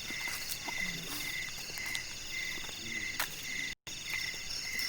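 Night chorus of crickets and other insects: a steady high chirping made of several tones, one pulsing in even beats and another as a fast trill. The sound cuts out completely for a moment about three-quarters of the way through.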